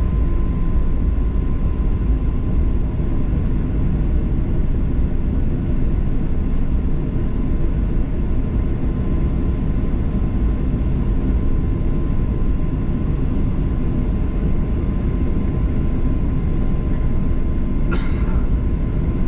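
Steady cabin rumble of a Boeing 737-800 with its CFM56-7B engines running at low thrust, heard from a window seat, with a faint steady whine. A short higher-pitched sound comes near the end.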